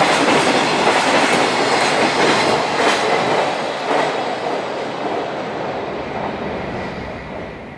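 Container wagons of a freight train passing at speed, their wheels clattering over the rail joints with a few sharper knocks. The sound grows gradually fainter from about halfway and fades out at the end.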